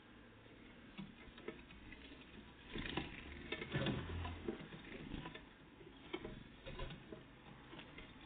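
Great tits and blue tits feeding at a bird feeder: irregular tapping and clicking of pecking and hopping, busiest in a flurry around the middle.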